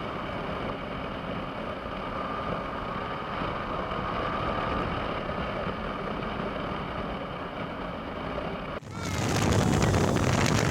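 Yamaha R15 V4's 155 cc single-cylinder engine running steadily at idle. About nine seconds in, this gives way abruptly to loud wind rush over the helmet microphone as the motorcycle gets under way.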